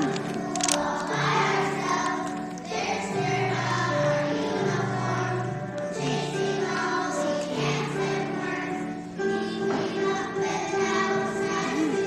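A group of kindergarten children singing a song together, holding each note for about a second.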